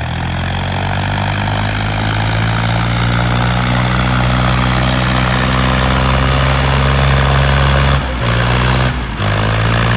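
Heavy tractor diesel engine running hard at high revs, steady with its pitch creeping slightly upward. It drops out briefly twice near the end.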